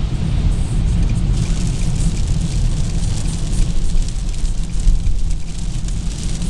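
Car driving in the rain, heard from inside the cabin: a steady low rumble of engine and tyres on wet road, with rain ticking faintly.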